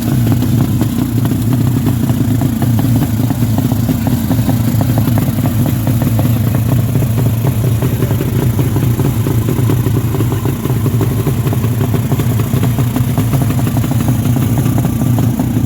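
Honda Karisma motorcycle's single-cylinder four-stroke engine running steadily at a constant speed, with no revving.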